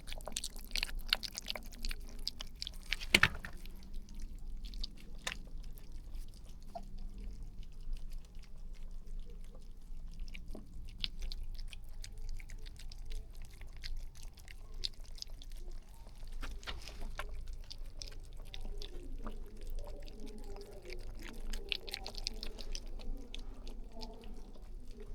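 Puppies chewing and eating, a run of small wet clicks and crunches, with one louder click about three seconds in.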